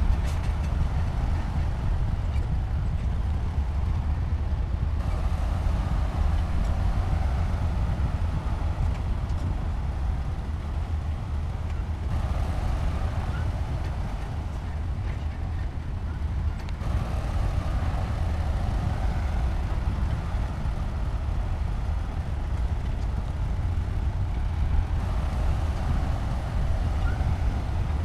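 Heavy diesel engine of a SHANTUI bulldozer running steadily, a deep continuous rumble with a higher band of noise that swells and fades every several seconds.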